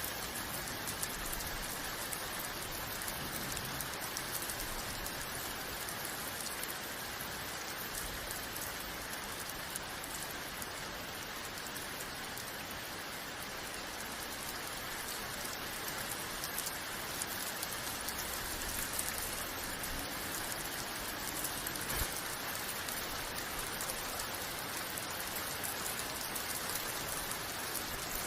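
Steady, even rain falling, with now and then a sharper drop hit.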